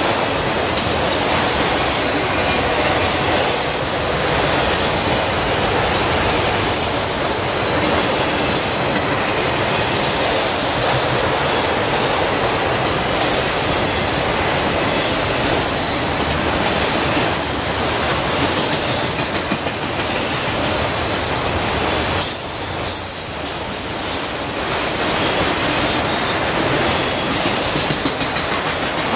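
Freight train of autorack cars rolling past at trackside: steel wheels rumbling and clattering over the rail joints, a loud, steady noise.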